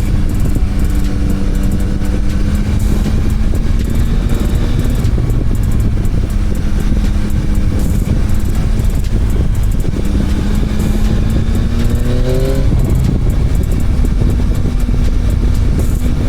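Motorcycle engine running while riding, under a heavy low rumble of wind on the microphone. Near the end the engine revs up, its pitch rising, then drops back as the gear changes.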